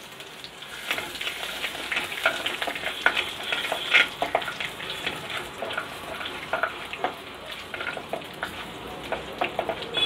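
Chopped garlic frying in hot sesame oil with mustard seeds, urad dal and cumin in a clay pot: a steady sizzle with frequent small crackles, while a wooden spatula stirs and scrapes against the clay.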